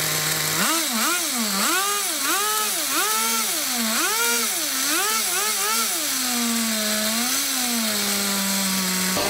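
Small nitro glow engine of a Kyosho Blizzard RC snowcat, blipped up and down repeatedly for about six seconds, then settling to a steady idle with one last small blip near the end.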